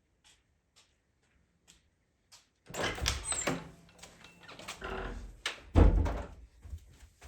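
A few faint clicks, then from about three seconds in a run of knocks and clatter with a heavy thud near six seconds, like a wooden door being opened and shut.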